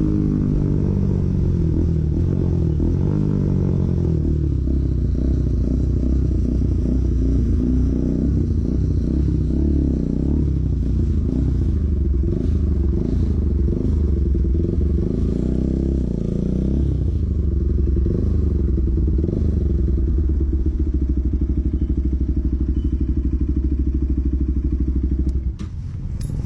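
Bajaj Pulsar NS200's single-cylinder engine running through an SC Project aftermarket exhaust. The revs settle down from a blip at the start, then it idles with a low, steady note that turns uneven for a stretch in the middle. The sound drops off just before the end.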